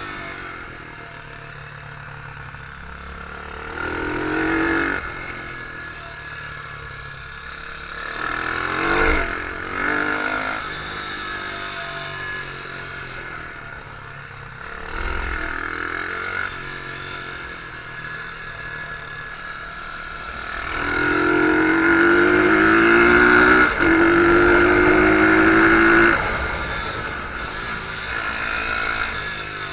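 Beta R150 pit bike engine heard on board while riding, repeatedly revving up and dropping back as the throttle opens and closes. Near the end comes the longest and loudest pull, held high for several seconds with a brief break partway through.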